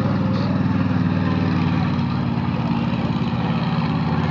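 Monster truck engine running steadily at a low, even speed with a fast pulsing throb.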